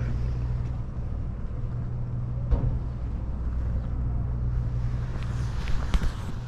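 A motor running steadily with a low, even hum, with a few short knocks about two and a half seconds in and again near the end.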